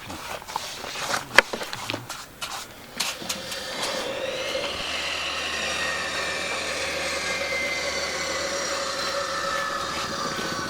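A few sharp knocks and taps, then from about four seconds in a steady motor drone with several held tones.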